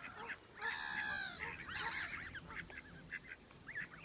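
Waterfowl and their young calling while being fed: a steady chatter of many short, high peeps, with a louder harsh call about a second in and a shorter one just before two seconds.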